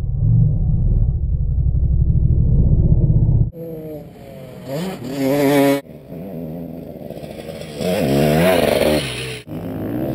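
Honda CR500 two-stroke single-cylinder motocross engine, heard first as a low, muffled rumble for a few seconds, then revving with its pitch rising and falling as the throttle is worked. The sound breaks off sharply about three times.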